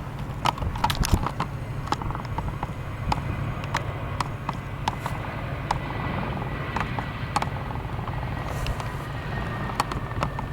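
A steady low rumble with irregular sharp clicks and taps, several a second; a faint steady high tone comes in about three seconds in.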